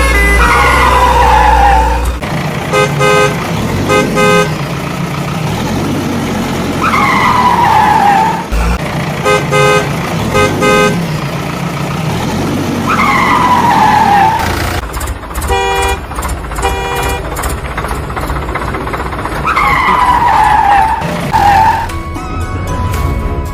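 Vehicle horn toots in short groups over a low rumble, repeating in a loop about every six seconds, each round opening with a falling whistle-like sweep.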